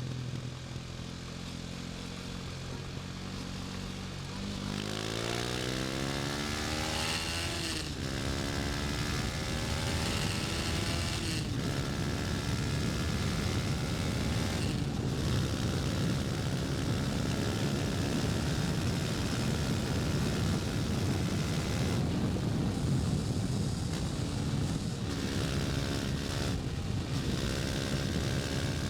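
KTM Duke 250's single-cylinder four-stroke engine pulling hard from low speed, its pitch rising through the gears with upshifts about eight and eleven seconds in, then holding a steady cruise. Wind rushes over the microphone as speed builds.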